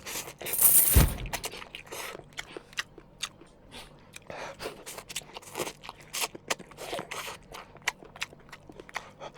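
Irregular crunching, scraping and clicking noises, with a heavy thump about a second in.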